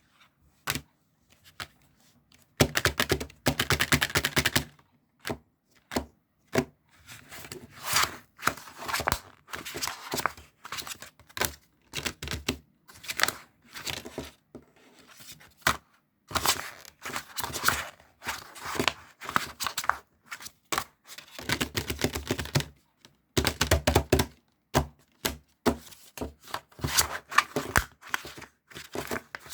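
Close-up handling sounds: irregular spells of rapid clicking and crinkling or tearing, broken by short pauses.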